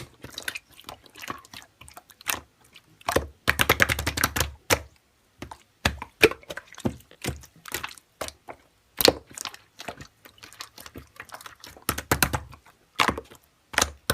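Slime being squished and pressed by hand, making wet crackling pops and clicks. There is a fast run of popping clicks about three to five seconds in and scattered pops after it.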